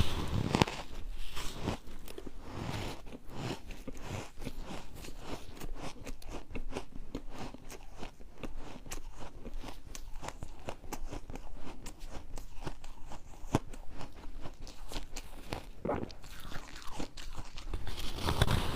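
Refrozen ice being bitten and chewed, a dense run of crunches and sharp cracks, with heavier bites near the start and the end.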